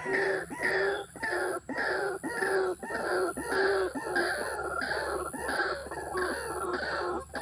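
An animal calling in a rapid series, about two calls a second, each call falling in pitch, stopping suddenly near the end.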